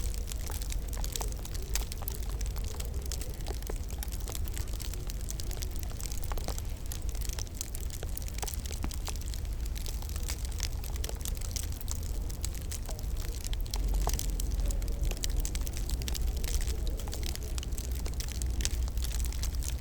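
Wood fire crackling in a fireplace, with frequent small pops over a steady low rumble.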